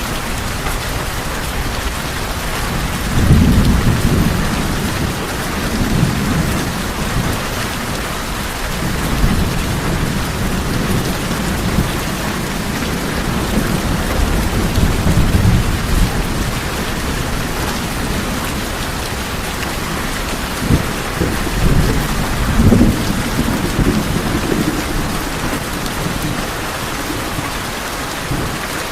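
Steady heavy rain falling on tin roofs, with low rolls of thunder swelling up several times.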